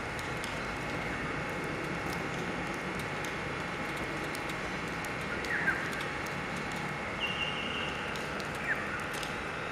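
Steady outdoor background hum with a few short, sharp bird chirps, one about five and a half seconds in and another near the end, and a brief buzzy trill about seven seconds in.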